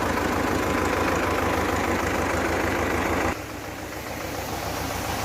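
Tractor engine idling with a steady low beat. It cuts down sharply a little over three seconds in, leaving a quieter noise.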